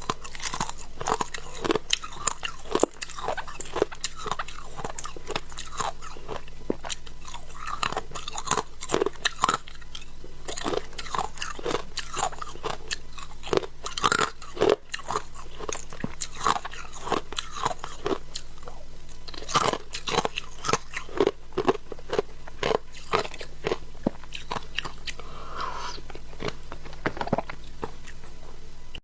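A person biting and chewing crunchy shaved ice close to the microphone: rapid, irregular crunches throughout, over a steady low hum.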